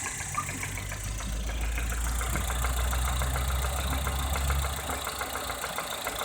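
Lada Kalina Cross engine running warm with a fast, even knock. The engine note swells for a few seconds, then settles back.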